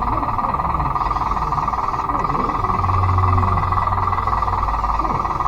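Remote-control Bruder D5 bulldozer running on its electric drive, a steady gear whine with a lower motor pitch that rises and falls as it drives back and forth.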